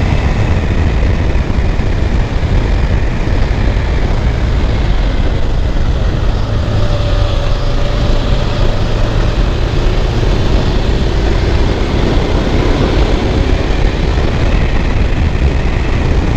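Suzuki GS500F's parallel-twin engine running steadily as the motorcycle rides up a winding hill road, under heavy wind rumble on the microphone.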